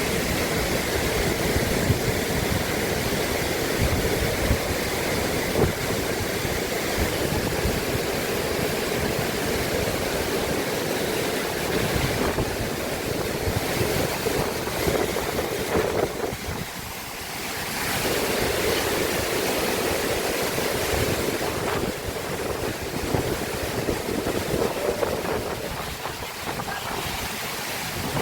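Steady rushing roar of a waterfall, with wind rumbling on the microphone. It eases briefly a little past halfway, then comes back.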